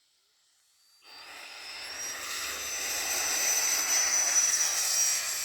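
Electric ducted-fan RC jet spooling up to full power: a faint whine climbs in pitch, then about a second in the fan jumps to a loud rushing whine that keeps building, dropping off at the end. It is running on a 6-cell battery though set up for 8 cells, which the pilots blame for too little power.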